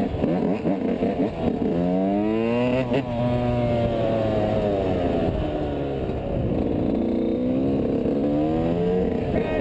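Motorcycle engine running under throttle, its pitch rising sharply about two seconds in, falling back after about three seconds, then climbing again near the end.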